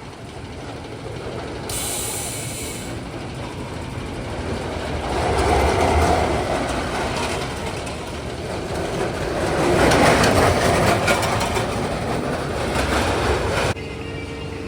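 Roller coaster train rattling along its track. It swells to a peak about six seconds in and again around ten seconds, then cuts off abruptly near the end.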